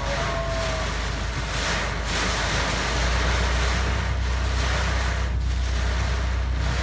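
Typhoon-force wind gusting in waves of noise, over a vehicle's steady low rumble that grows louder about three seconds in.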